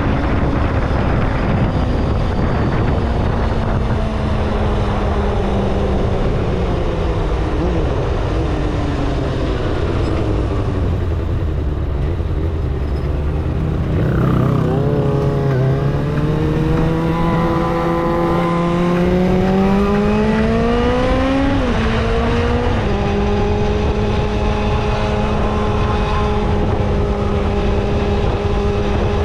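Kawasaki ZXR250's inline-four engine under way: the revs fall slowly for about ten seconds, climb again around the middle, drop sharply with a gear change a little past two-thirds through, then hold a steady pitch.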